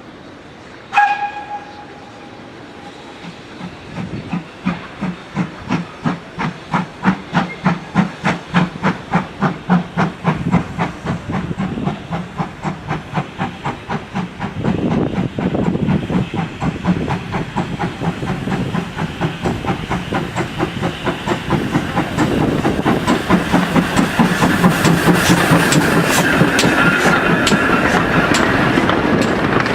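Steam locomotive gives a short whistle blast, then starts away with exhaust chuffs that begin about two a second and quicken. It builds into louder, steadier running noise as the train gathers speed.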